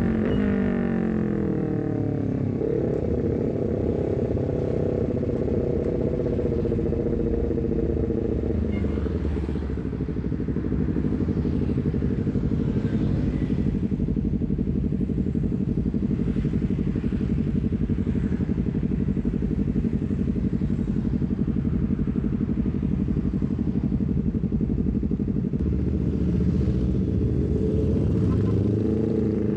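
Honda CBR250RR parallel-twin engine breathing through an R9 full-system header and a short Leovince GP Corsa carbon silencer while riding. The engine note falls in the first couple of seconds, holds steady, drops a little lower about a third of the way in and holds there a long while, then rises as the bike accelerates near the end.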